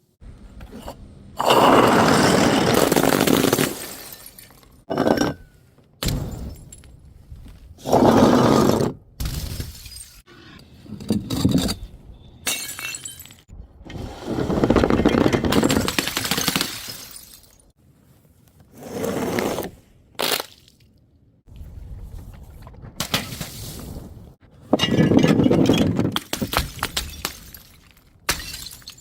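Glass bottles smashing one after another, each a loud shatter and crunch that trails off into clinking shards, with shorter knocks and clinks between the big breaks.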